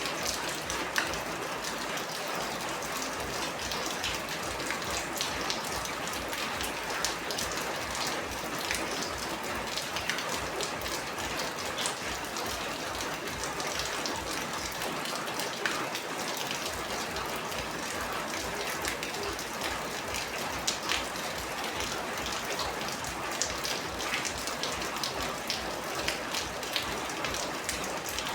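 Steady rain, with many separate raindrops hitting sharply and unevenly through an even hiss.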